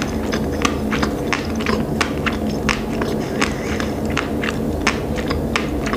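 Close-miked chewing of a sushi roll with the mouth closed: a quick, irregular run of small wet mouth clicks, several a second, over a steady low hum.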